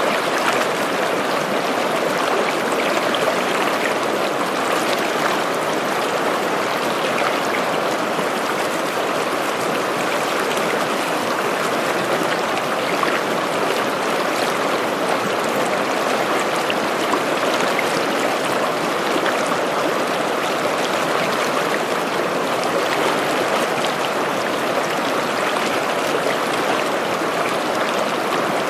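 Stream babbling steadily, a continuous even rush and gurgle of running water.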